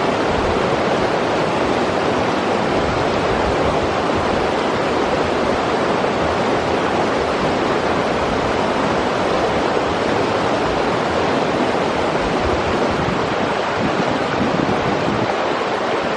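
River water rushing over rocks: a steady, even rush with no change in level.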